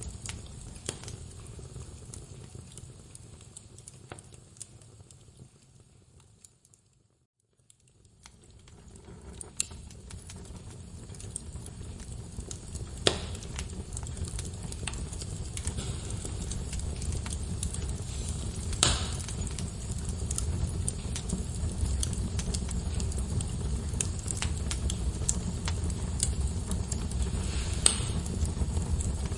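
Log fire in a fireplace burning with a steady low rumble and scattered sharp crackles and pops, a few of them loud. About seven seconds in the sound fades almost to silence, then fades back in.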